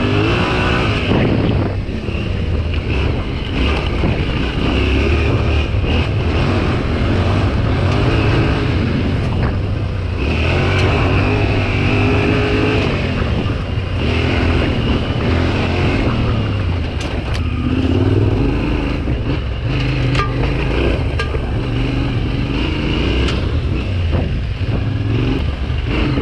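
Yamaha Ténéré 700's parallel-twin engine pulling off-road, its revs rising and falling again and again through the gears.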